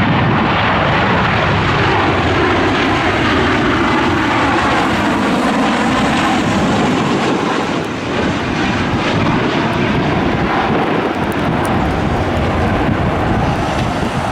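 Aircraft engines running loud and steady, a dense rushing noise with no break.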